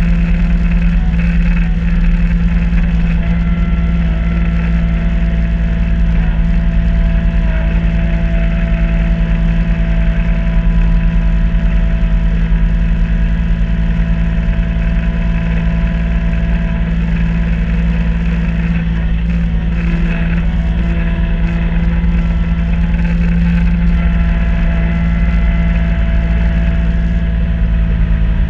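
Kubota B2650 compact tractor's three-cylinder diesel engine running at a steady speed, driving a front-mount B2782 snow blower.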